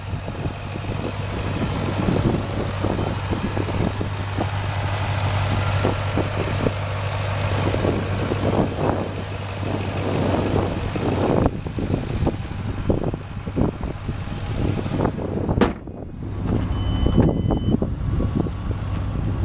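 2008 Ford Mustang GT's 4.6-litre V8 idling steadily with a low hum, heavily covered by wind buffeting on the microphone. A brief high-pitched beep sounds near the end.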